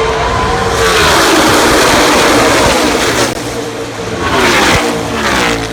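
NASCAR Cup stock cars' V8 engines at full throttle passing close by. A pack sweeps past about a second in, its engine pitch dropping as it goes by, and a second, shorter pass comes near the end.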